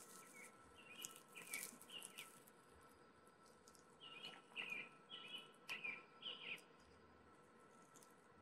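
Faint bird calls: two runs of short, slurred chirps at a few notes a second, the second run starting about four seconds in.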